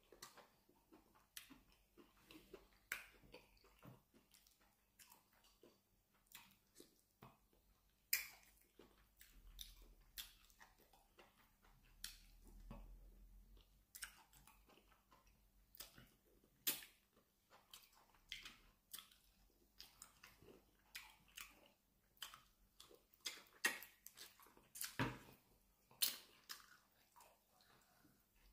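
Close-up eating sounds of plantain fufu with peanut soup eaten by hand: soft wet chewing broken by many short, irregular clicks and smacks.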